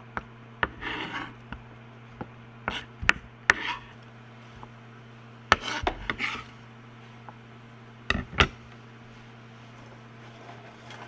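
Kitchen prep on a cutting board: a handful of irregular sharp knocks with short scraping strokes between them, as of a knife working and scraping food on the board.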